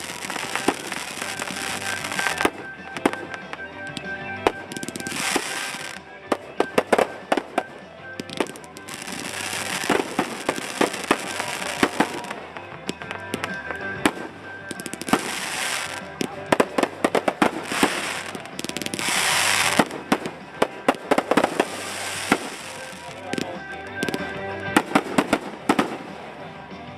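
Aerial fireworks going off one after another: sharp shell bursts and several seconds-long stretches of hissing, crackling, with music playing faintly underneath.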